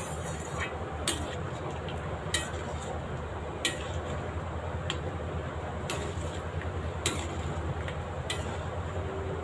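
Pan of pea gravy boiling under a plate lid: a steady low hum with light sharp ticks about once a second.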